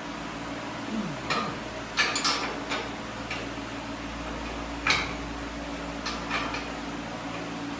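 Scattered metallic clinks and knocks of hand tools and steel suspension parts being handled, about ten separate strikes with the sharpest near two seconds and five seconds in, over a steady low hum.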